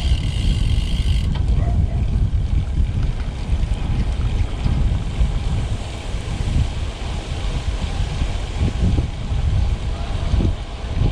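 Wind buffeting the microphone during a road bike ride, a loud, steady low rumble. A high steady tone sounds in the first second or so and cuts off.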